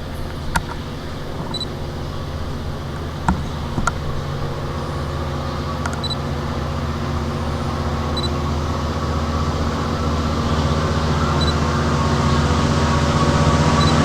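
Diesel engine of a Long Island Rail Road DM30AC locomotive working as the train departs, a steady drone of several tones that grows gradually louder. A few sharp clicks sound in the first four seconds.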